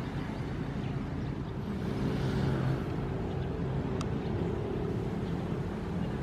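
Ocean surf: a steady low rumble of waves, with one wave swelling louder and brighter about two seconds in.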